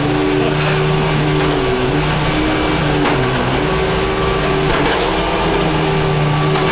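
Vacuum cleaner motor running with a loud steady hum, its pitch dipping briefly a few times as it is pushed about.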